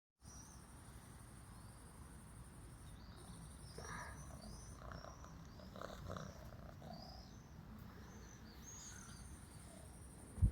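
Faint evening outdoor ambience: a steady high insect trill that drops out twice, with many short high chirps over it. A single low thump near the end.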